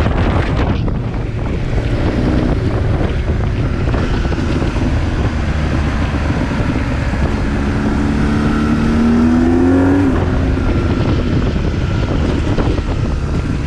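BMW R 1200 GS boxer-twin engine with an SC Project exhaust running under way, with wind rushing over the microphone. The engine note climbs steadily for a few seconds as the bike accelerates, then drops off about ten seconds in.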